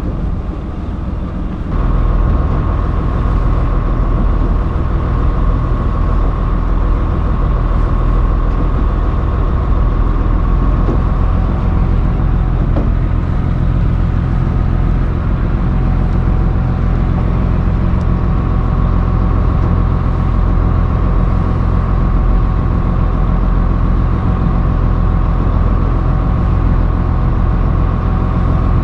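Fishing boat's engine running steadily, with a low drone and a steady whine. It gets louder about two seconds in, then holds steady.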